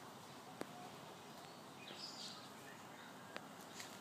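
Quiet background with two faint sharp clicks, about half a second in and again near the end, and a faint high chirp about two seconds in.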